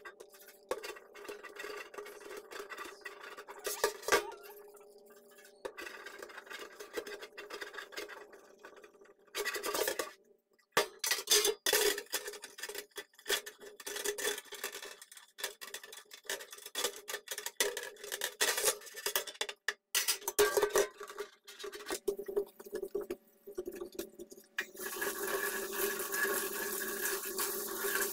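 Metal oven trays being washed by hand in a kitchen sink: irregular clattering and knocking of the trays, with scrubbing. Tap water runs steadily near the end.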